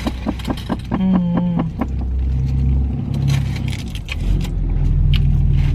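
Car engine running with a steady low rumble, heard from inside the cabin, with small clicks over it and a short steady hum about a second in.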